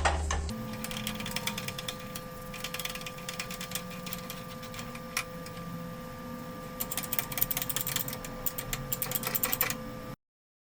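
A workshop machine running with a steady whine, under rapid, irregular clicking and rattling that gets busier near the end before the sound cuts off abruptly.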